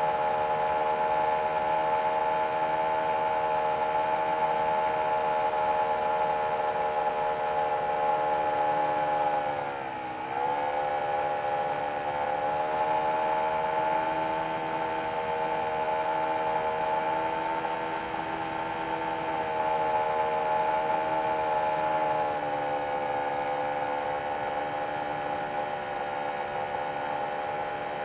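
Nitro glow engine of an 84-inch Spacewalker RC airplane running steadily at a high, even pitch. About ten seconds in it drops briefly in pitch and loudness as the throttle comes back, then climbs back up and runs on steadily.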